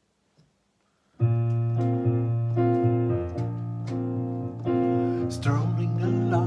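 Instrumental song intro: after about a second of near silence, keyboard chords start and change in a slow, steady rhythm, with sharper strummed attacks joining near the end.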